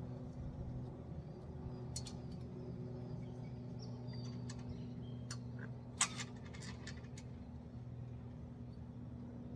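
A steady low hum with a few sharp clicks, the loudest about six seconds in, and faint bird chirps in the middle.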